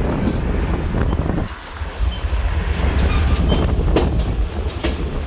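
Passenger train rolling along the track, heard from aboard: a steady low rumble with irregular sharp clacks from the wheels over rail joints. The rumble briefly drops about a second and a half in.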